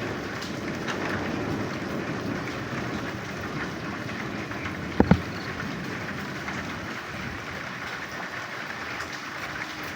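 Steady rain with frogs croaking. About halfway, one loud, short double croak falls in pitch.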